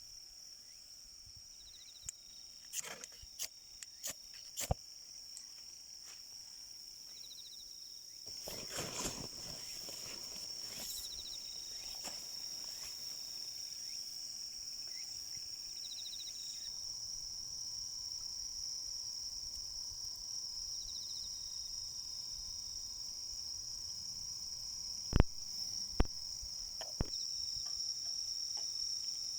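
Crickets and other insects chirping outdoors: a steady high-pitched trill with a softer chirp repeating every few seconds. A rustling noise about a third of the way in, a few small clicks, and two sharp knocks near the end.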